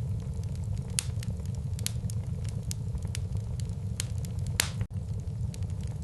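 Wood fire burning in a fireplace: irregular sharp crackles and pops over a steady low rumble of the flames, with a louder pop about four and a half seconds in and a momentary dip in the sound just after it.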